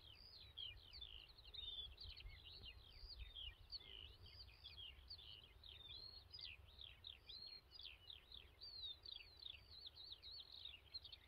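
Faint birdsong: a continuous run of quick chirps, most of them falling in pitch.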